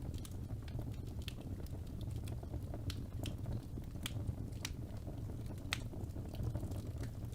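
Wood fire burning in a fireplace: a steady low rumble of flames with irregular sharp crackles and pops, a few louder snaps past the middle.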